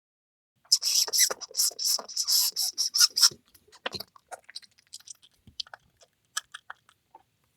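A mouse making a dense run of rapid, high-pitched scratchy clicks and squeaks, starting about half a second in and lasting about two and a half seconds, then trailing off into sparse single clicks and short chirps.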